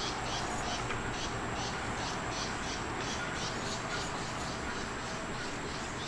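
Insects chirping in a steady rhythm, several short high chirps a second, over a steady background hiss.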